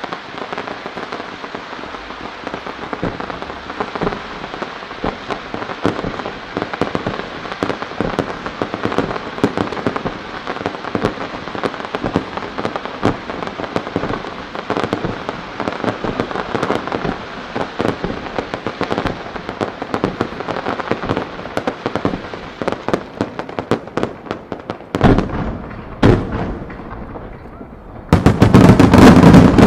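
Fireworks crackling steadily, a dense stream of small pops. Near the end come a couple of loud bangs, then a rapid barrage of bursts, the loudest part.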